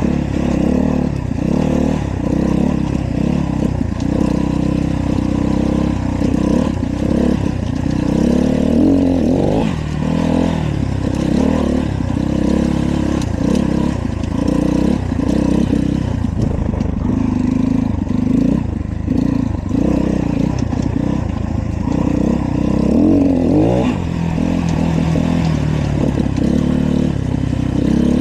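Dirt bike engine running while being ridden, its pitch rising and falling again and again as the throttle is worked.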